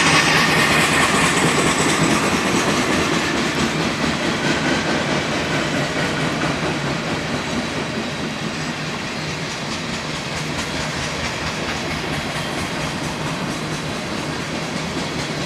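Heavily loaded freight train cars rolling past at reduced speed, a steady rolling rumble of wheels on rail that is loudest at the start and eases slightly.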